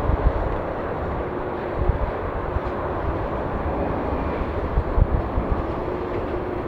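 Jet airliner engines rumbling steadily, with a faint steady hum underneath.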